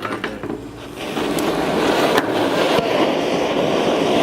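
Homemade ball-filled flamethrower device igniting and jetting flame, a loud steady rushing hiss that starts about a second in after a few faint clicks.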